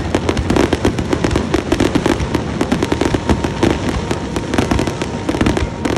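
Fireworks going off in a dense, continuous crackle of many quick pops over a low rumble of bursts.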